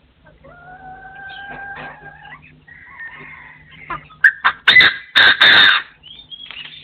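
Partridge calling: one long, steady whistled note, then a run of loud, harsh calls in quick succession about four seconds in.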